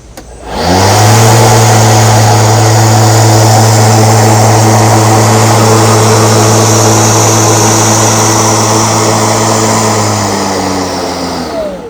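Milwaukee M18 cordless electric lawn mower's blade motor spinning up to speed about half a second in and running at a steady, loud whir with an airy rush. Near the end the pitch falls as the blade spins down.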